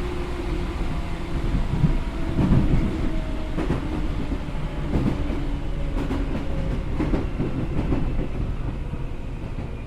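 Onboard running sound of a Seibu N2000 series electric train with field-chopper control. The wheels knock over rail joints from about two seconds in, then roughly once a second, over a steady rumble. A faint motor and gear whine sinks slowly in pitch.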